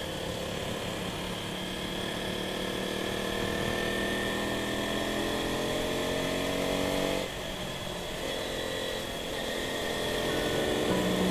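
Motorcycle engine pulling under way, its pitch climbing slowly for about seven seconds. It dips briefly as it shifts up, then climbs again.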